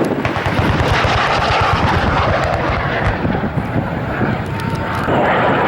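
Loud, rough jet noise from a MiG-17F fighter's turbojet as it makes a high-speed pass, swelling again about five seconds in.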